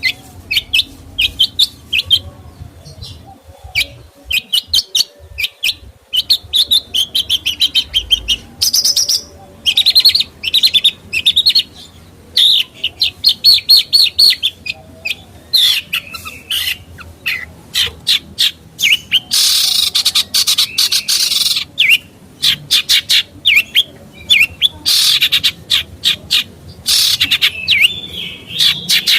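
A songbird singing loudly and continuously: a fast, varied run of sharp chirps and rattling trills, with harsher, scratchy passages about two-thirds of the way through and again near the end.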